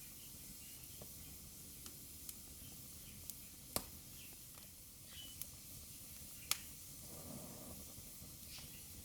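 Fire burning in a fireplace: a steady soft hiss with scattered small pops and two sharp, louder cracks, a little under four seconds in and again about six and a half seconds in.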